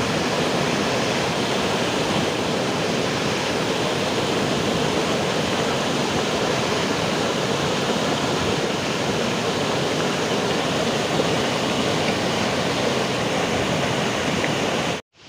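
Overflowing lake water rushing steadily in a heavy, continuous torrent.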